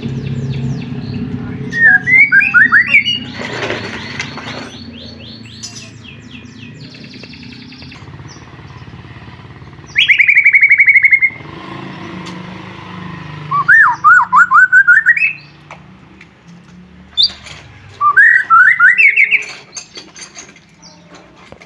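White-rumped shama (murai batu) singing: four loud phrases of rapid whistled trills sliding up and down, with fainter chirps between them. A low steady hum lies beneath through the first half.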